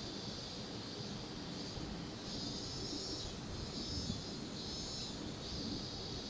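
Insects shrilling outdoors, a high buzzing chorus that swells and fades in pulses, over a steady low rumble.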